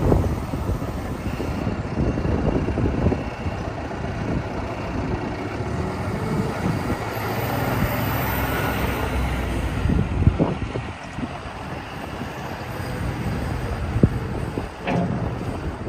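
A John Deere 444 P-Tier wheel loader's diesel engine running steadily as the machine is worked, with a few short clunks, one about two-thirds of the way in and another near the end.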